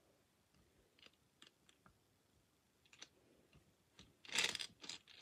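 Scattered faint clicks, then a louder rattling clatter starting about four seconds in.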